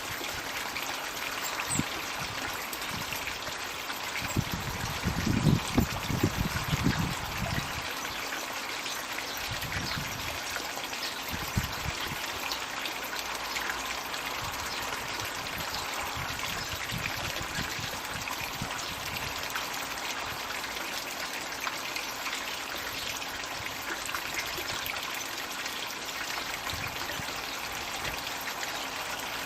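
Garden pond water feature (a floating 'magic bucket') running, water pouring and trickling steadily into the pond. Some low rumbling bumps come in about five to seven seconds in.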